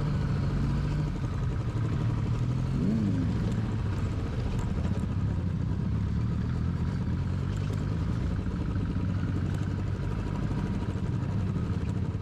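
Motorcycle engine running steadily while riding along a rough off-road track.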